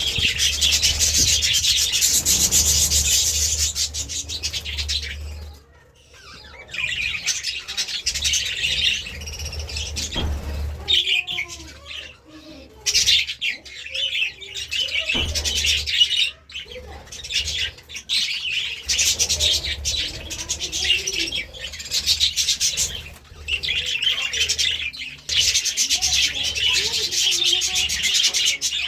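Budgerigars chattering and chirping in long, rapid runs broken by a few short pauses.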